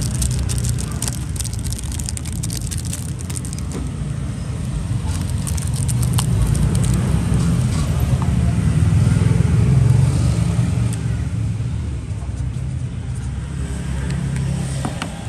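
A motor vehicle's engine rumbles nearby, growing louder to a peak about two-thirds of the way through and then fading, like a vehicle passing. Light clicks and taps are heard in the first few seconds.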